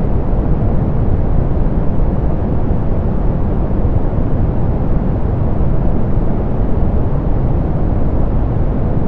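Steady, unchanging synthetic pink noise, softened so that it is weighted toward the low end with little above the upper mids: a smooth hiss-and-rumble with no events.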